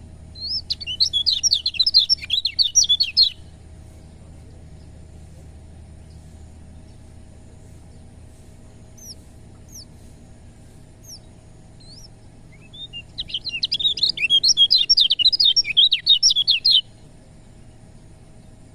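Kecial kuning white-eye singing: two bursts of rapid, high chattering song, each about three to four seconds long, with a few faint short falling chirps in the gap between them. A low steady hum runs underneath.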